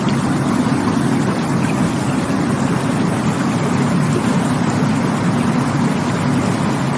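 Rushing water flowing steadily, an even rush with no breaks and its weight in the low range.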